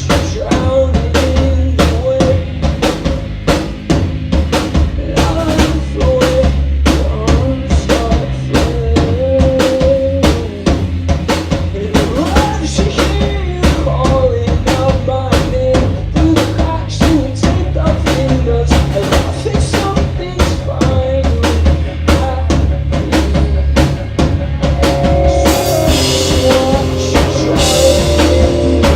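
Rock band playing live, with the drum kit out front: bass drum and snare keep a steady beat over bass and guitar. Cymbals wash in near the end.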